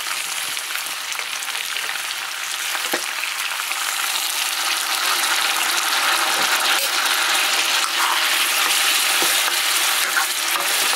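Chicken meat frying and sizzling in a pan, a steady hiss that grows a little louder about halfway through, with a few faint knocks of stirring.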